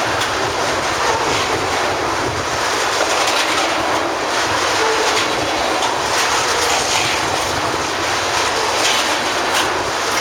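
Loaded oil train of tank cars rolling steadily past, wheels clacking over rail joints above a constant rumble and hiss of steel wheels on rail.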